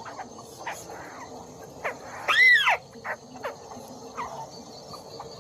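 White-browed crake calling: one loud, nasal note that rises and falls, about halfway through, among short falling chirps repeated every half second or so.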